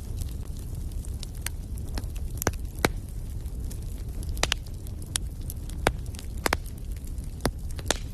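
Wood fire burning in a fireplace: a steady low rumble of flames with irregular sharp crackles and pops from the burning logs, a dozen or so, the loudest just under 3 seconds in.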